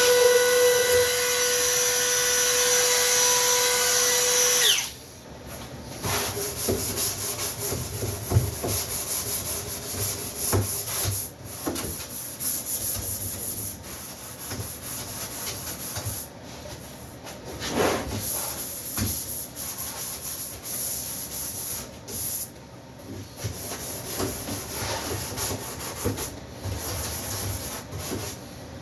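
A power tool's motor runs at a steady high pitch, then switches off about five seconds in, its pitch falling as it winds down. After that come irregular rubbing and scraping sounds of work on wood.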